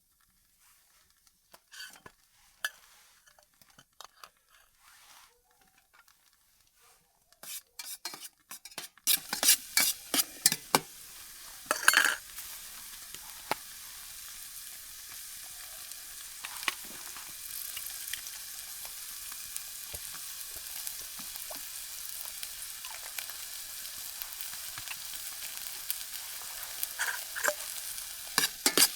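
Food frying in a hot pan: a few faint handling clicks, then about nine seconds in a steady sizzle starts, full of crackles and pops.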